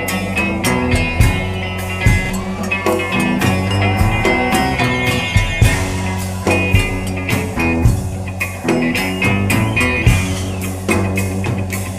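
Band music in a blues-rock style, with guitar over a bass line and a steady drum beat.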